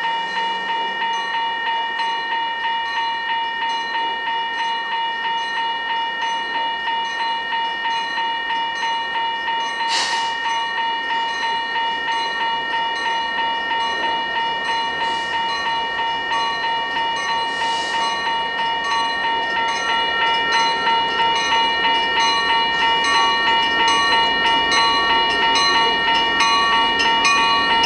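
Grade-crossing warning bell ringing steadily at about two strikes a second, getting louder in the second half, over the rumble and clatter of a passing freight train, with brief hisses about ten and eighteen seconds in.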